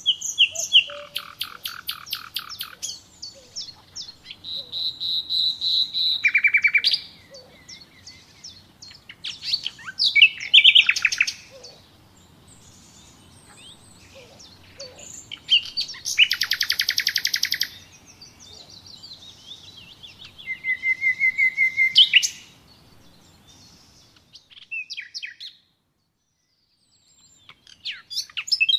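Songbirds singing: phrases of rapid chirps and trills with short pauses between them. About four-fifths of the way through, the background noise cuts out and only a few scattered chirps remain.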